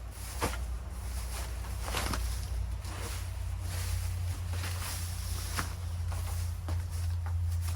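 Irregular rustling and crackling of leaf litter and brush, with a few sharp snaps and knocks, from someone moving and working on the forest floor; a steady low hum runs underneath.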